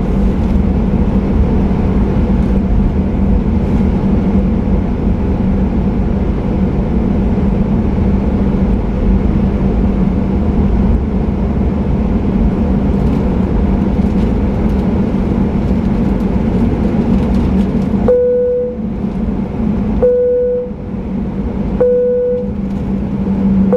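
Boeing 737-800 jet engines at high thrust heard inside the cabin, with heavy rumble and a steady hum, consistent with the takeoff roll. About three quarters of the way through the rumble drops away, and a short mid-pitched tone begins repeating about every two seconds.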